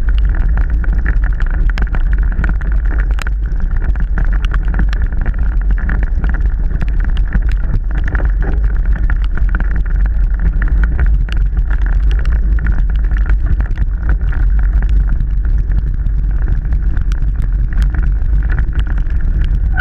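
Mountain bike ridden over rough trail, heard through the riding microphone: steady wind buffeting with a deep rumble, and frequent small clicks and rattles from the bike over the ground.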